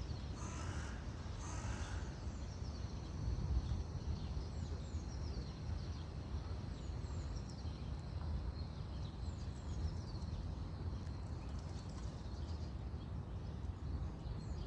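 Birds calling over a steady low outdoor rumble. Two short harsh calls come near the start, then many quick high chirps follow throughout.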